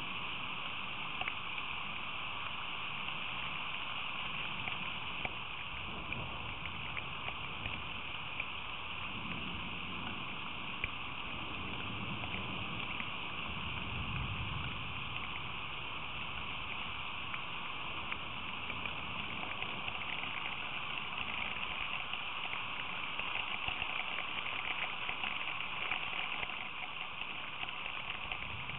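Steady rain falling: a continuous hiss with scattered drop ticks.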